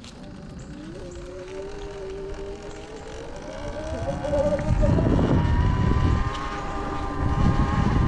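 Sur Ron electric dirt bike's motor whining, rising in pitch as the bike speeds up and then holding steady. Wind buffets the microphone, growing loud about halfway through.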